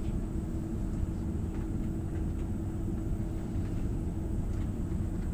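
Passenger train in motion heard from inside the carriage: a steady low rumble with a constant hum running through it and a few faint clicks.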